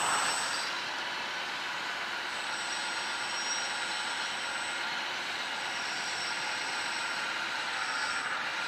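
1/14-scale RC hydraulic bulldozer working in sand, its motors and hydraulic pump giving a steady whir and hiss with a thin high whine over it.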